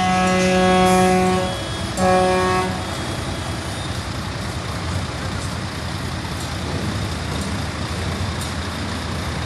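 Truck horn sounding a long blast of about a second and a half, then a shorter one, on one steady pitch. Then the steady rumble of heavy truck engines and traffic.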